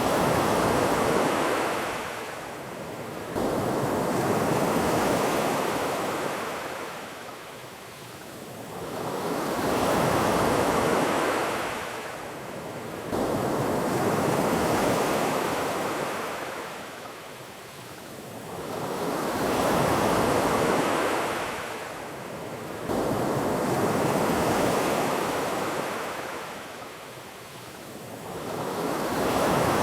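Ocean surf: waves wash in and recede, each swelling and fading over about four to five seconds, six times in a row.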